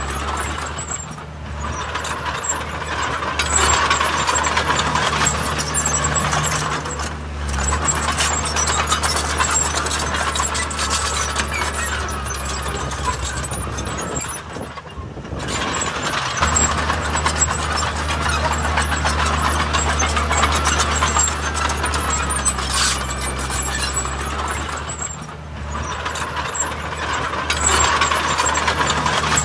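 Heavy diesel earthmoving machinery working: a deep engine hum under continuous metallic clatter that swells and eases several times as the machine works under load and lets off.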